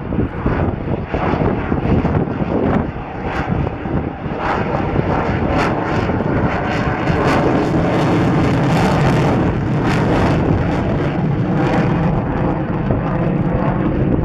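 Jet noise from a Boeing F/A-18F Super Hornet's two General Electric F414 turbofan engines in flight: a loud, rushing noise that grows steadier from about halfway through.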